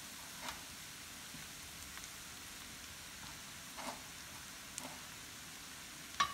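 Fried rice with pork sizzling faintly and steadily in an enameled skillet, with a few light ticks.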